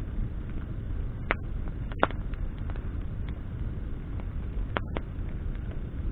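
Campfire of burning branches crackling, with sharp pops and snaps about a second and a half in, at two seconds and near five seconds, over a steady low rumble of the flames.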